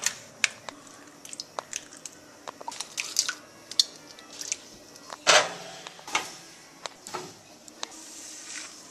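Kitchen handling sounds while cooking: a scatter of small clicks and knocks of utensils and dishes, with a few louder scrapes and rustles about halfway through.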